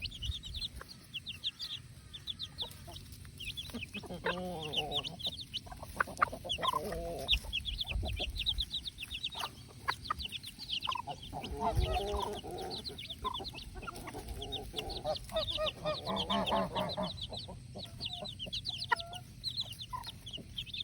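Frizzle chicks peeping constantly in short high cheeps, with the mother Frizzle hen clucking low in several short runs.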